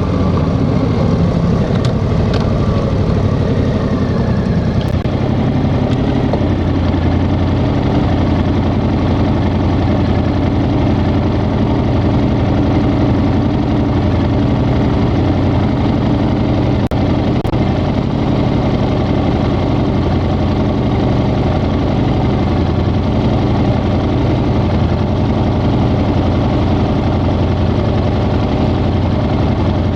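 Yamaha XSR700's 689 cc parallel-twin engine running steadily, its pitch holding nearly constant.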